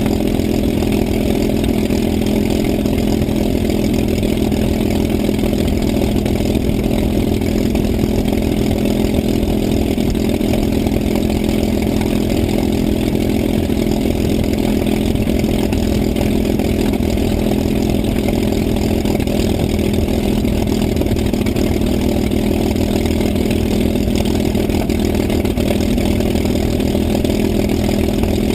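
P-51 Mustang's V-12 piston engine running steadily, an even drone that holds the same pitch and loudness throughout.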